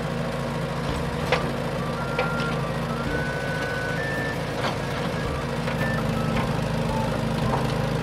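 Heavy-machine engine running steadily under a toy crawler crane as it tracks along. Scattered short high beeps at several different pitches and a few light clicks sound over it.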